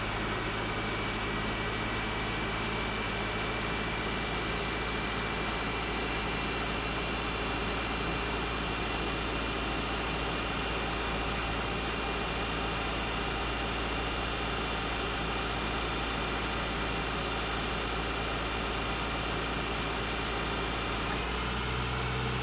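2009 Subaru Outback engine running steadily at raised idle with the A/C compressor engaged while the system is charged with refrigerant. Near the end, the engine note shifts to a different pitch.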